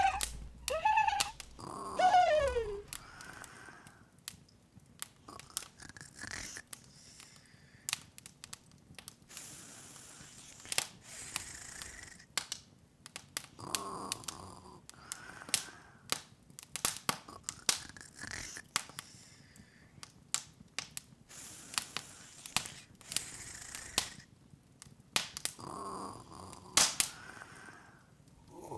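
Open fire crackling, with irregular snaps and pops throughout. In the first couple of seconds a short high, squeaky cartoon voice slides down in pitch, and a few soft muffled sounds come in about halfway and again near the end.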